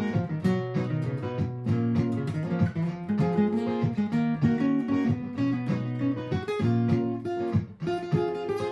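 Martin GPCPA4 acoustic-electric guitar improvising over a looped guitar part from a Donner Triple Looper, with picked and strummed notes layered over the repeating loop.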